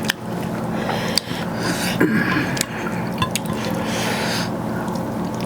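Close-up wet eating sounds: rice mixed with chicken gravy being eaten, squishy and moist, with a few small clicks.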